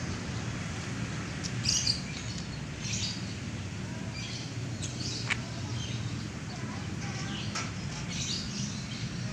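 Birds chirping in short, scattered calls over a steady low background rumble, with a couple of sharp clicks in the middle.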